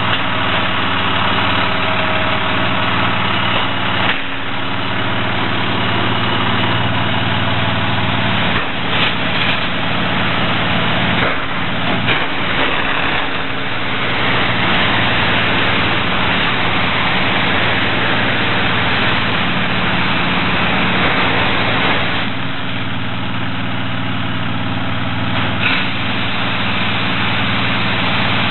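A heavy engine idling steadily, with a rushing noise over it that grows and fades several times.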